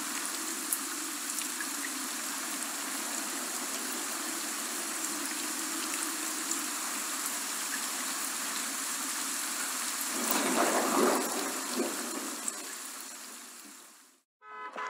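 Rain sound effect: steady rain falling, with a louder swell about two-thirds of the way through, then fading out near the end.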